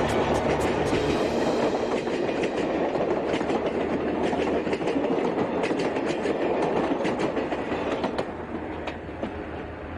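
A train running along the track with a dense rumble and rapid, regular clicking in the first couple of seconds, then sparser clicks, becoming quieter about eight seconds in.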